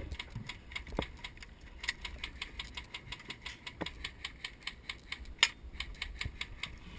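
A rapid, irregular run of sharp clicks and ticks, several a second, with one louder crack about five and a half seconds in.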